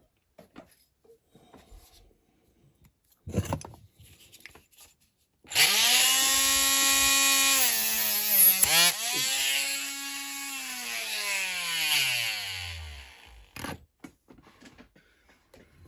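Small handheld electric rotary tool or mini drill running for about eight seconds: it spins up, holds a steady whine, dips briefly in pitch as if it bites into the work, picks up again, then winds down in pitch as it is switched off. A short click comes a couple of seconds before it starts.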